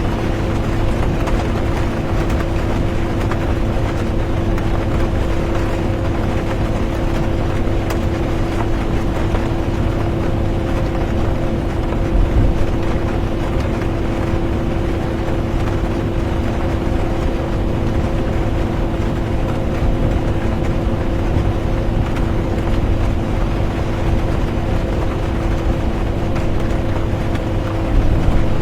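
Inside a moving bus: a steady engine and road rumble with a constant hum, over a hiss of rain. Two brief louder bumps come about twelve seconds in and near the end.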